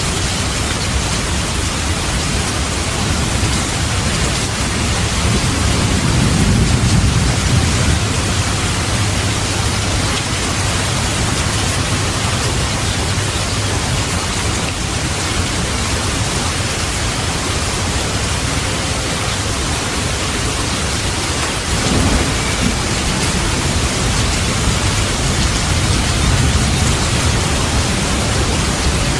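Steady heavy rain with rolling thunder. A low rumble swells about six seconds in and fades, and another starts more suddenly about three-quarters of the way through.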